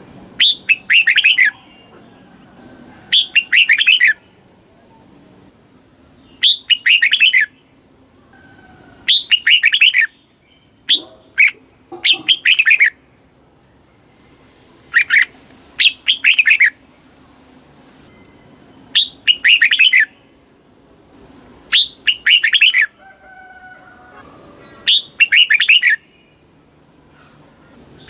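Red-whiskered bulbul singing: short, loud phrases of quick falling whistled notes, repeated about every two to three seconds.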